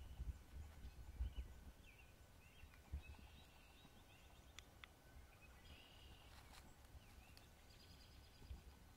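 Near-silent pond-side ambience: faint, scattered chirping calls of small birds over a low rumble.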